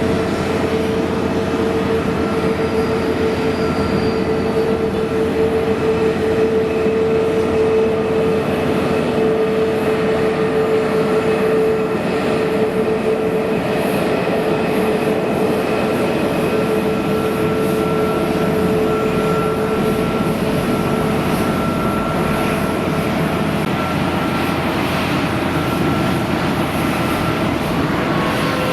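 Jet airliner engines running with a steady noise and a high whine that fades about two-thirds of the way through.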